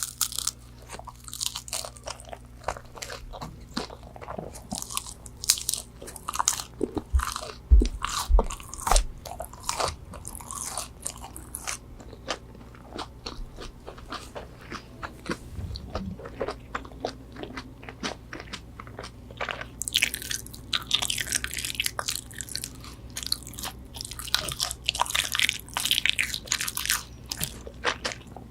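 Close-miked bites and chewing of crispy McDonald's chicken nuggets: repeated crunching crackles, coming thick and fast near the end.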